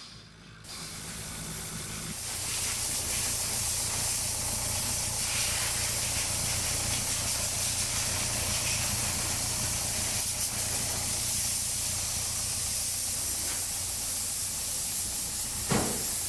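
Nissan Terrano engine running during a carbon-flush treatment, with a loud steady hiss over a low hum. The hiss comes in about a second in and builds for a couple of seconds. A short knock is heard near the end.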